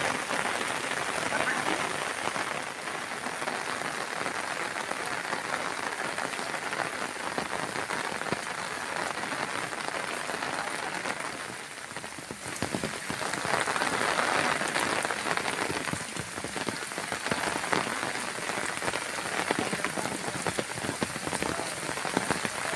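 Heavy rain falling steadily on trees and a stone path, with many small drop impacts ticking through the hiss. It eases briefly about twelve seconds in, then picks up again.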